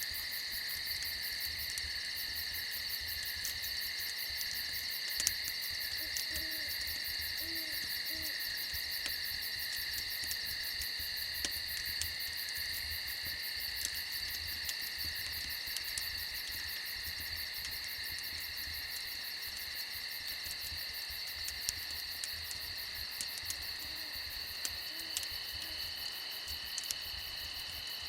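Steady, continuous cricket chorus, with a few short, soft owl hoots in a group about six to eight seconds in and again near the end, and scattered faint crackles.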